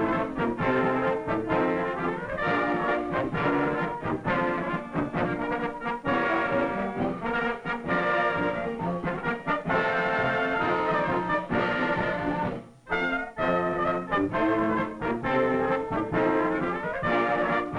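Brass band music with trombones and trumpets playing a run of quick notes. It breaks off briefly about thirteen seconds in, then carries on.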